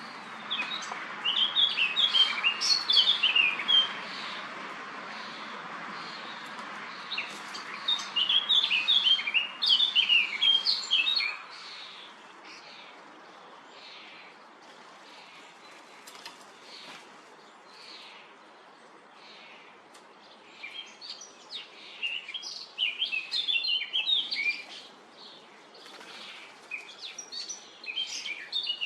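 Songbirds chirping in several bursts of rapid, high chirps with quieter gaps between, over a steady hiss that fades about a third of the way in.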